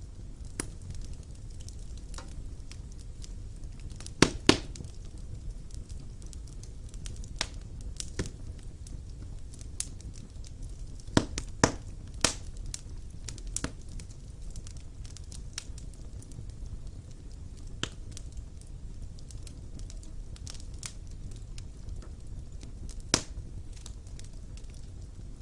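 Wood fire burning in a stone fireplace: a steady low rumble of flames with irregular crackles and sharp pops of the logs, a few louder snaps scattered through.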